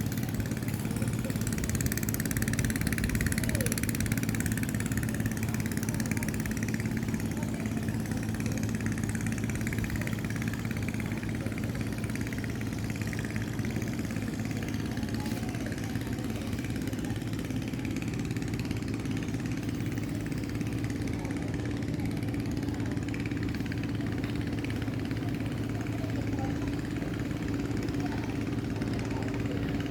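An engine running steadily at a low, even hum, its pitch shifting slightly about two-thirds of the way through.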